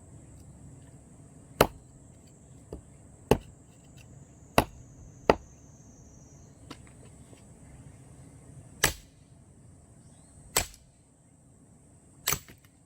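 Axe chopping into a firewood log: about seven sharp blows, irregularly spaced one to three seconds apart.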